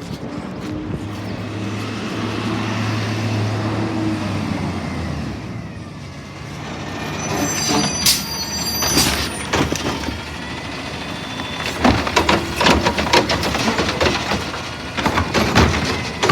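Garbage truck running with a steady low engine drone, then its brakes squeal and hiss about eight seconds in, followed by a run of metal clanks and knocks.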